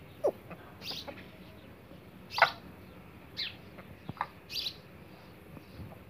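Short bird calls: about seven quick chirps that sweep down in pitch, spaced irregularly a half-second to a second apart, the loudest about two and a half seconds in.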